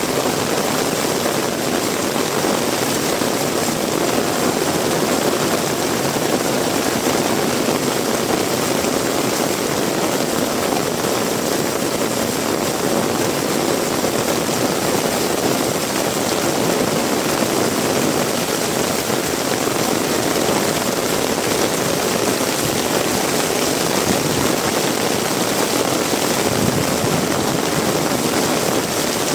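Heavy rain pouring down, a dense steady hiss with no breaks.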